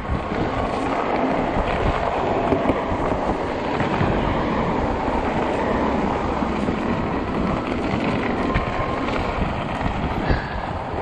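Steady rushing noise of a fat-tire e-bike on the move: tyres rolling over snowy, slushy pavement with wind on the microphone.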